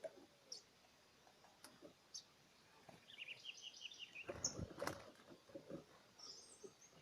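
Faint chirps from small wild birds: scattered short high calls, with a quick run of about eight chirps around three seconds in. A brief low rustle sounds around the middle.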